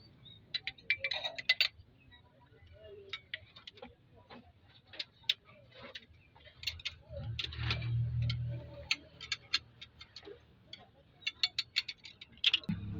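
Irregular metallic clicks, taps and clinks of spanners and engine parts being handled during cylinder-head assembly, with a low rumble swelling briefly about seven seconds in.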